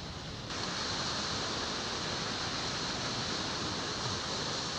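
Steady rushing noise of surf and wind on the shore, rising slightly about half a second in.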